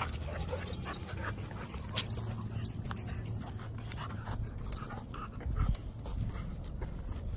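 Dogs playing together, giving short, scattered vocal sounds.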